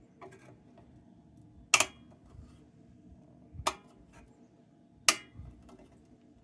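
Three sharp metallic clinks, about two seconds apart, with faint light ticks between: a loose object knocking against the metal of an old lantern's fount as it is tipped and worked out through the opening.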